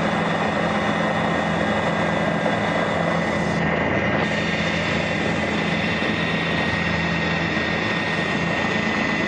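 Tour helicopter in flight, its engine and rotors running steadily as a dense, even din with a low hum and a thin, steady high whine above it.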